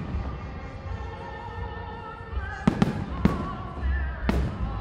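Aerial firework shells bursting: four sharp bangs in the second half, the first two close together, each trailing off briefly. Music plays underneath throughout.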